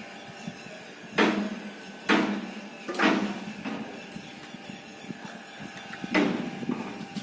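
Four sharp metal knocks that ring on briefly: three about a second apart, then one more near the end. A steady low hum runs underneath.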